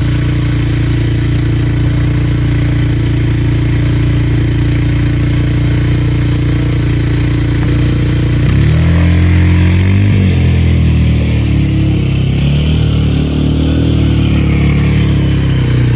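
Four-wheeler (quad ATV) engine idling steadily, then revved up and down from about halfway through, its pitch rising and falling before settling again near the end.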